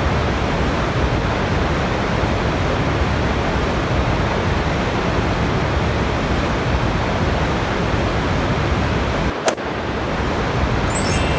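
Steady, dense rushing of a waterfall's falling water, a constant hiss-like roar like white noise. About nine and a half seconds in, one sharp click with a momentary dip cuts through it.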